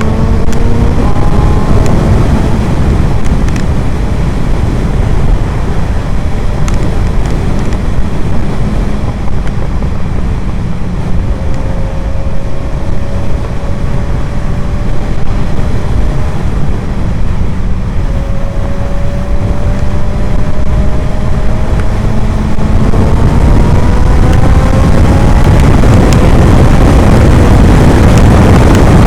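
2011 Suzuki GSR 750's inline-four engine through an Ixrace Z7 aftermarket exhaust, heard while riding with heavy wind rumble on the microphone. The engine pitch climbs slowly at a cruise, then rises faster and louder under harder acceleration near the end.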